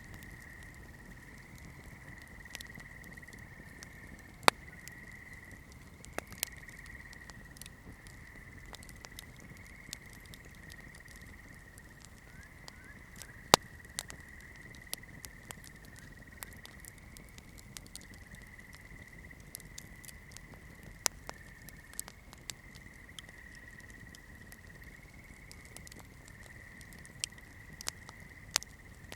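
Wood campfire crackling: irregular sharp pops and snaps, the two loudest about four and a half and thirteen and a half seconds in, over a steady high-pitched hum.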